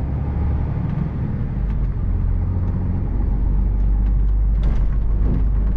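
HGV lorry's diesel engine running steadily as the lorry drives, a deep, constant rumble.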